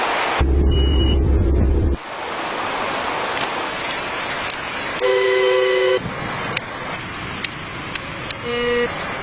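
A steady noisy background with a heavy low rumble for about a second and a half. About five seconds in comes a one-second two-note honk, horn-like, and a shorter honk just before the end.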